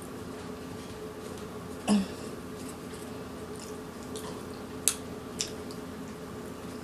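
Eating at a table: a few short clicks and smacks from a fork and mouth, about two, five and five and a half seconds in, over a steady faint hum.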